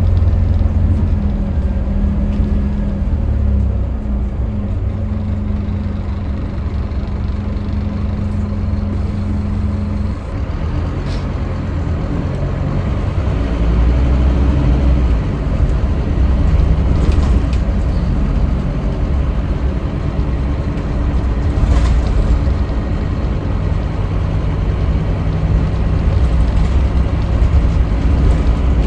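Scania K310UB bus's diesel engine running under way, with a steady engine note for the first ten seconds. The note eases about ten seconds in, then builds again from about fourteen seconds as the bus pulls on, with a few light clicks and rattles over it.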